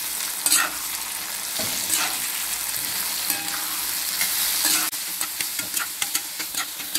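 Halved brinjals and chopped shallots sizzling in oil in a cast-iron kadai while a metal spatula stirs them, with scattered scrapes and knocks of the spatula against the pan.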